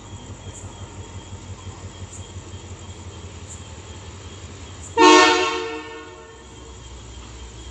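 Class M2 diesel-electric locomotive's engine running with a steady low throb, then about five seconds in a single short blast of its multi-tone air horn, the loudest sound, fading out within about a second before the engine throb carries on.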